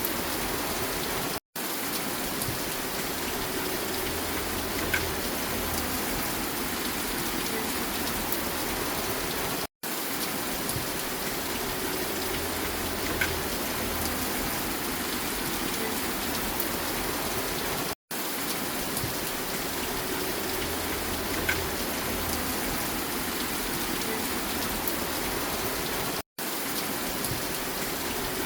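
Steady rain falling, with a few light drips, as a short recording looped about every eight seconds; each repeat is broken by a brief cut to silence.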